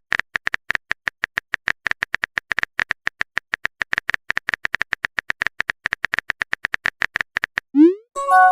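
Typing sound effect: fast, even ticking of small clicks, several a second, which stops near the end. A short rising swoop follows, then a steady electronic tone sets in.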